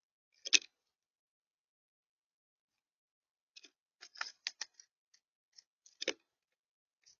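Sparse sharp clicks and taps: one loud tap about half a second in, then a quick irregular run of clicks a few seconds later, ending in a stronger tap.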